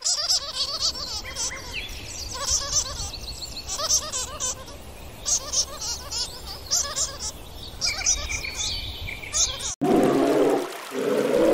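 A chorus of animal calls: many quick, high bird chirps and trills over repeated lower calls. About ten seconds in it cuts off abruptly to a louder, lower sound.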